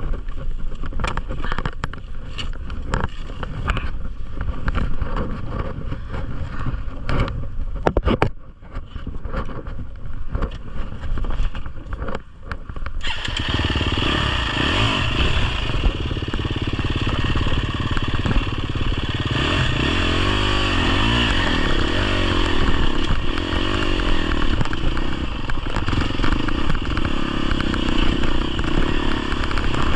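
250cc four-stroke enduro dirt bike engine on a trail ride. For roughly the first 13 seconds it runs low under a clatter of knocks and scrapes. Then it picks up and runs harder, its revs rising and falling.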